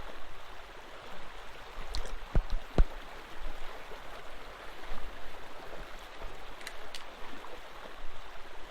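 Steady watery hiss, like rain or running water, with a few light taps and clicks about two seconds in and again near seven seconds.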